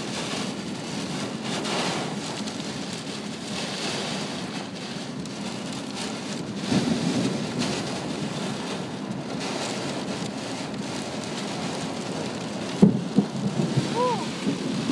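Heavy rain pelting a moving car, heard from inside the cabin as a steady hiss. About 13 seconds in, a sharp, loud crack of thunder breaks through.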